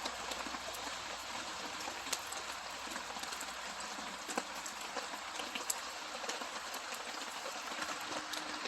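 Steady rain falling, with a campfire crackling: an even hiss dotted with scattered sharp pops and ticks, a few louder ones about two, four and a half and six seconds in.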